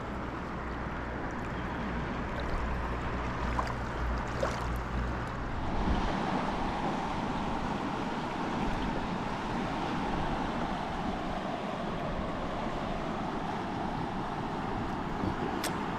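River water rushing steadily, with wind rumbling on the microphone for about the first six seconds.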